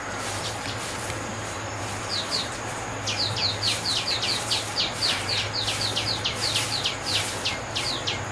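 A bird calling in a fast series of short, high, falling chirps, about five a second. A few scattered notes come first, and the run starts about three seconds in, over a steady low hum.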